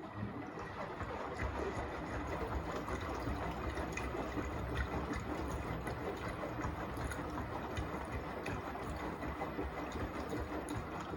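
Beko WTK104121A washing machine on its rinse cycle, a steady rush of water with a low rumble from the drum.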